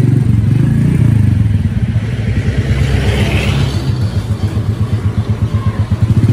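Motorcycle engine idling close by, a steady low pulsing rumble, with a brief rise of hiss about three seconds in.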